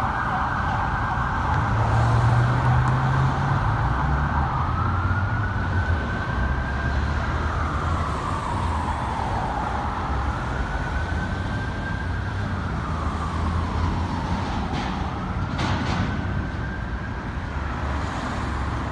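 Emergency vehicle siren responding code 3, over the low rumble of the vehicle's engine. A fast yelp switches about four seconds in to a slow wail that rises and falls three times.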